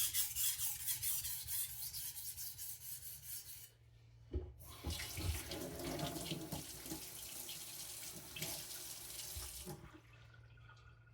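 A knife blade stroked quickly and evenly back and forth on a whetstone, fading out after about three and a half seconds. After a knock, water runs for about five seconds, then stops.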